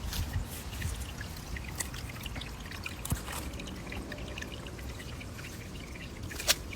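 Water trickling steadily, with scattered small ticks and a couple of sharp clicks.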